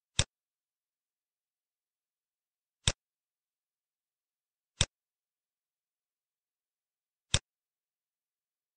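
Four sharp computer mouse clicks, two to three seconds apart, with dead silence between them.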